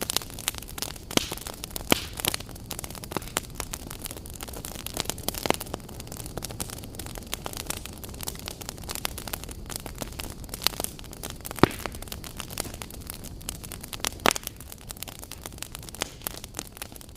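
Wood fire burning in a fireplace, a steady low rush of flames with frequent small crackles and a few louder pops.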